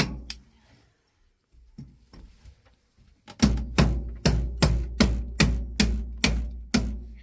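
Hammer driving nails into wooden joists: a couple of blows, a pause with a few light taps, then a steady run of about ten blows, roughly three a second, some with a faint metallic ring.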